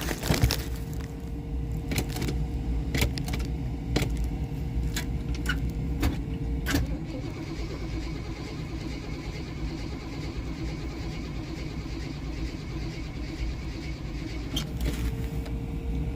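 1977 Jeep Cherokee Chief engine running with a steady low rumble after a cold start, with a string of sharp clicks over the first several seconds and a thin steady whine that drops out midway and returns near the end.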